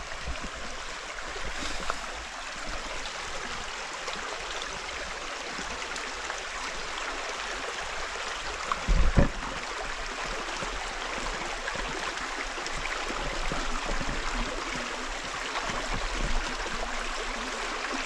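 Rocky river flowing steadily, a constant rushing of water over stones, with a short low thump about nine seconds in.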